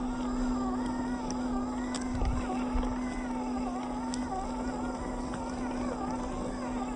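Radio-controlled off-road car's small electric motor whining, its pitch rising and falling with the throttle, over a steady low hum, with a few faint clicks.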